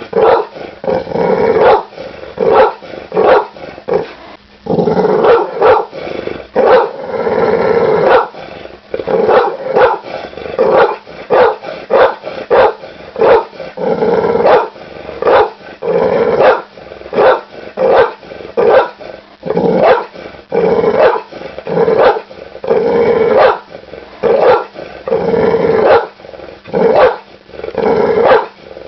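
Pit bull barking over and over, about one to two barks a second, with some longer drawn-out barks among them.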